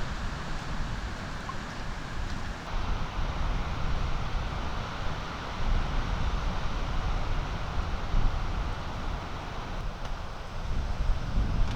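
Sea wind buffeting the microphone: a gusty, uneven rumble with a hiss over it.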